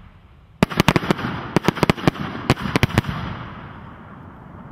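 Aerial fireworks bursting: a rapid volley of about a dozen sharp bangs, starting about half a second in and going on for some two and a half seconds, then dying away.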